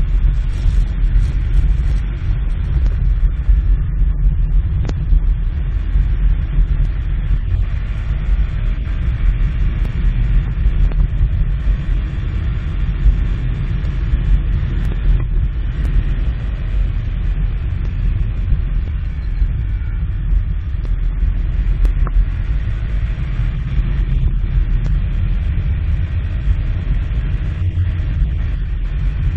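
A Polaris Ranger 1000XP side-by-side on the move, a steady low rumble of engine and driving noise with no changes in pace.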